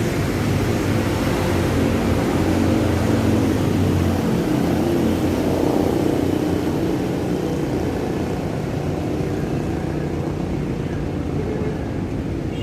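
A motor engine running steadily, its low hum easing off about halfway through.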